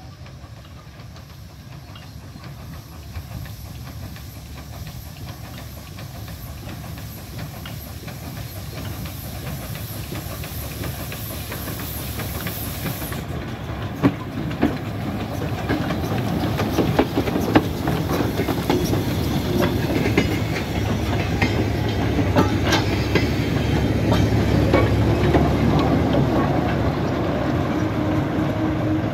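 Heritage passenger train approaching and running past at low speed, growing steadily louder. From about halfway the wheels click sharply and repeatedly over the rail joints, and a steady low drone comes in later as the Ruston 165DS diesel shunter at the rear end draws level.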